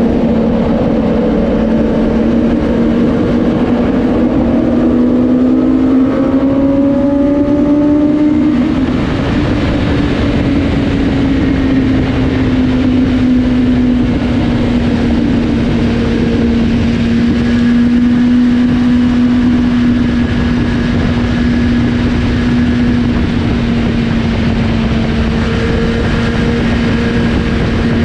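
A superbike engine running at a steady highway cruise. Its pitch creeps up over the first several seconds, then holds level.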